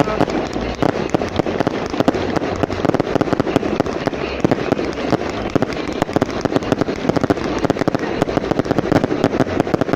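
Fireworks going off in a dense, rapid run of bangs and crackling pops with no gaps.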